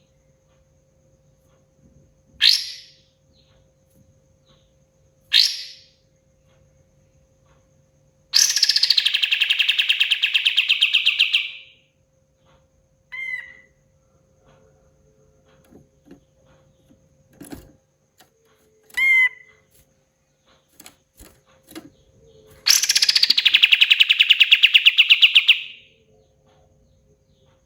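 Kapas tembak bulbul singing: two short sharp calls, then a long, loud, rapid rattling phrase of about three and a half seconds, a few short whistled notes, and a second rapid rattle near the end.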